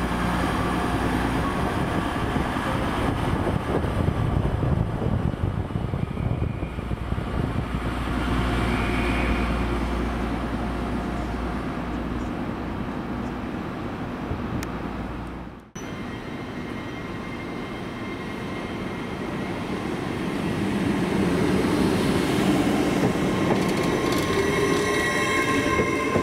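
Railway trains running with a steady low rumble. After a sudden cut about two-thirds of the way in, a train's sound builds up again, and thin high wheel-squeal tones appear near the end.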